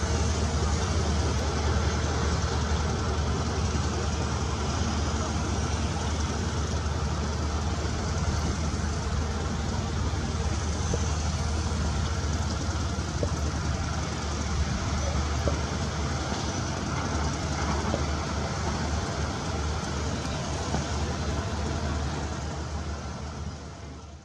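Heavy diesel construction machinery running steadily, with a strong low engine hum. The sound fades out near the end.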